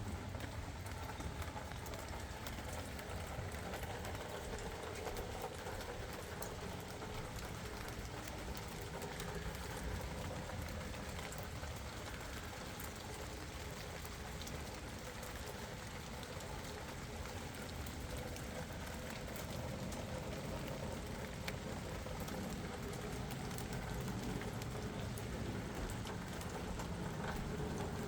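Steady rain falling, an even hiss dotted with the ticks of many separate drops landing.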